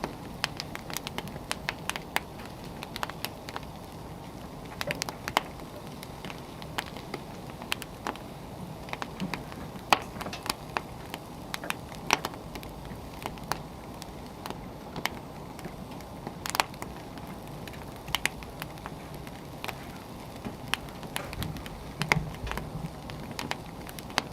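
Wood fire burning, with irregular sharp crackles and pops over a soft steady rush.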